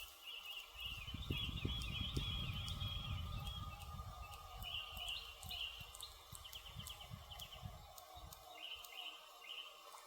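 Wood fire crackling with sharp pops, over repeated bird chirps. A low rumble comes in about a second in, is loudest soon after, and fades out by about eight seconds.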